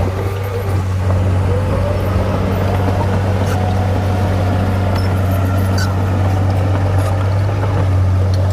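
Heavy earthmoving machine's diesel engine running steadily under load, a constant low drone, with scattered light clicks and knocks over it.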